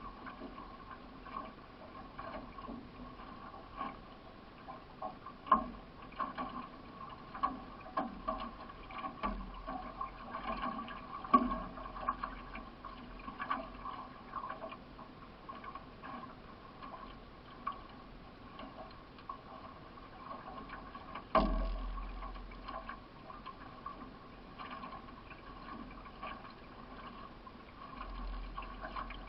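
Racing canoe under way: paddle strokes splashing and clicking about once a second over steady water noise along the hull, with one sharper knock about two-thirds of the way through.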